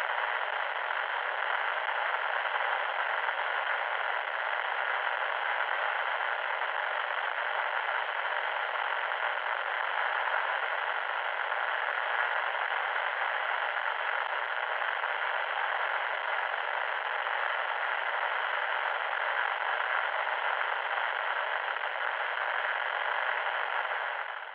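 Loud, steady static hiss with a harsh, radio-like, mid-pitched tone. It fades out quickly right at the end.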